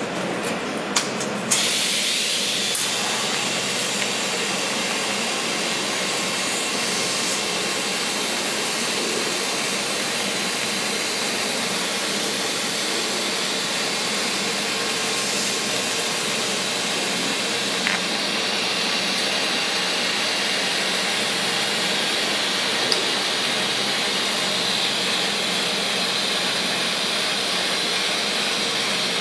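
Tube sheet orbital welding machine at work: a few sharp clicks, then about a second and a half in a steady hiss sets in and holds, as of a welding arc with its shielding gas.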